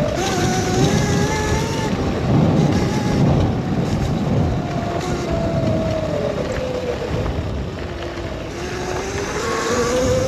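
Modded Razor electric dirt bike's motor whining under heavy wind and rumble while riding in snow. The whine's pitch follows the speed, sinking as the bike slows about five to eight seconds in, then rising again as it speeds back up.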